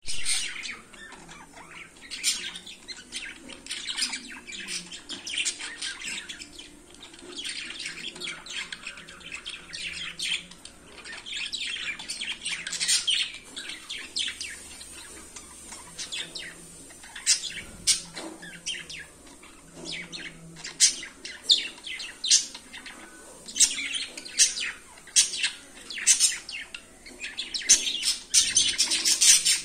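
Budgerigars chirping and chattering: a dense run of short, high chirps and warbles, getting louder and busier near the end.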